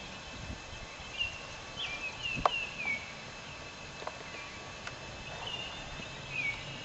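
Birds chirping, many short falling notes repeated on and off, with a few sharp knocks, the loudest about two and a half seconds in.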